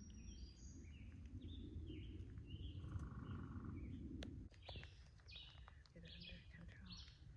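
Songbirds singing in the forest: runs of short, high chirping notes, repeated as quick phrases in the second half, faint under a low rumble that fades out about four and a half seconds in.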